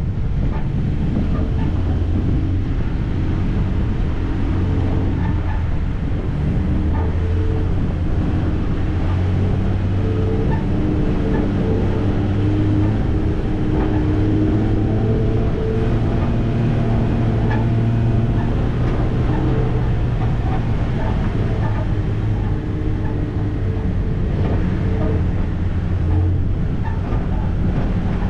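Vehicle engine running steadily at low speed, its pitch drifting a little up and down, with scattered small knocks and rattles over the noise.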